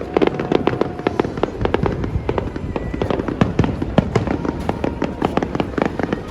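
Fireworks display: a dense, rapid run of crackling and popping bursts, many reports a second with no let-up.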